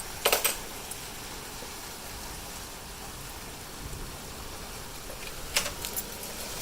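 Heavy rain falling in a steady hiss. A few sharp taps stand out, one about a quarter second in and a cluster near the end.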